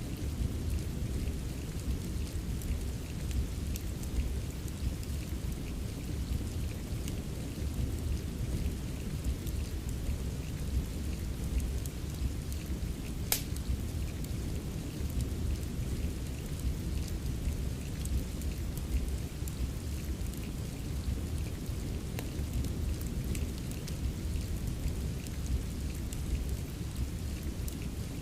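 Steady rain with a deep, constant low rumble, mixed with scattered small crackles of a wood fire and one sharper pop about halfway through.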